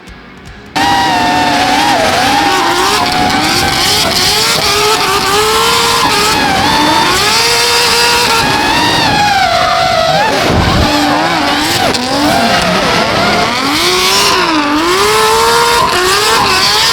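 Nissan Skyline R32 drift car's billet RB28 straight-six revving hard, its pitch rising and falling continually through a drift, with tyres squealing. It cuts in loudly about a second in, after a brief quieter moment.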